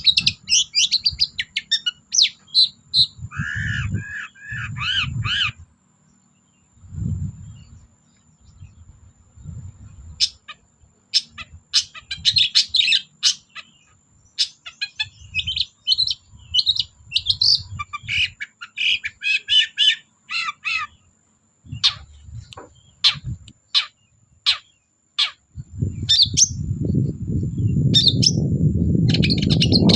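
Long-tailed shrike (cendet) singing: bursts of fast, scratchy chattering notes with sharp ticks, broken by short pauses. A low rumbling noise comes in now and then and gets loud for the last few seconds.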